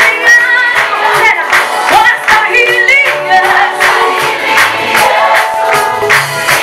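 A group of voices singing a praise and worship song, with a steady beat underneath.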